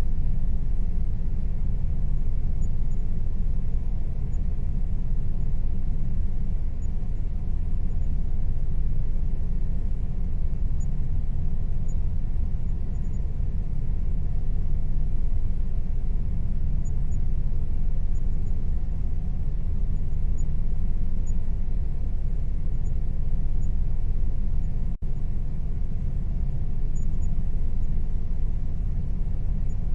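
Air conditioner running with a steady low hum and a rush of air, unchanging throughout, with one split-second break in the sound late on.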